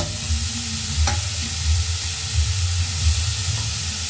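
Chunks of mawa (khoya) frying in a hot non-stick kadhai with a steady sizzling hiss, stirred and pushed around with a wooden spatula. A short click about a second in.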